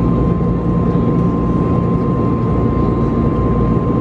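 Airbus A321neo in flight, heard from inside the passenger cabin: steady engine and airflow noise, a deep rumble with one steady high tone above it.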